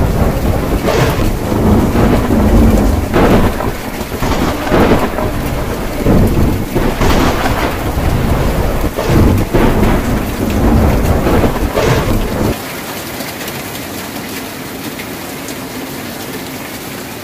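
Rain pattering on a tin roof under rolling thunder that rumbles in repeated surges. About twelve seconds in, the thunder cuts off suddenly, leaving only a steady hiss of rain.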